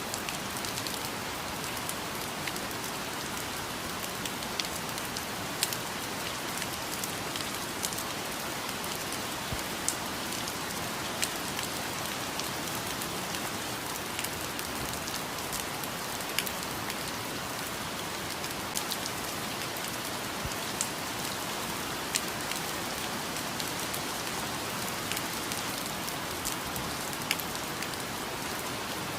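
Steady rain falling, with individual drops ticking sharply and irregularly on nearby surfaces.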